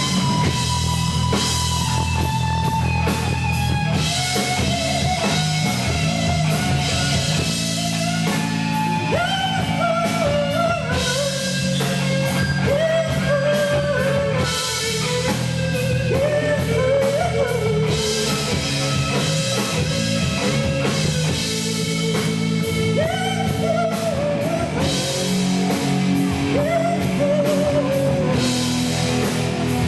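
Live rock band playing: electric guitar over a steady bass line and a drum kit with regular cymbal crashes, a melody line bending up and down in the middle, heard through a poor-quality recording.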